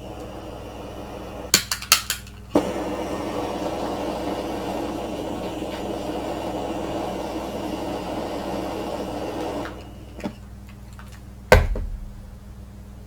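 Several quick metallic clinks, then a steady rushing noise that starts suddenly and stops about seven seconds later, then one heavy metal knock near the end, from pewter-casting tools and a small pan being handled.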